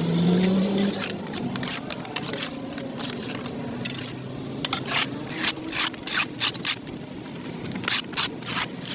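Rapid, irregular scraping strokes of a hand tool across a dirt-covered concrete sidewalk, with a faint engine hum underneath.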